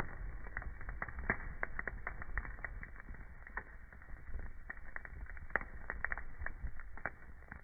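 Burning wood fire crackling, with irregular sharp pops and snaps, several a second, over a low steady rumble of the flames.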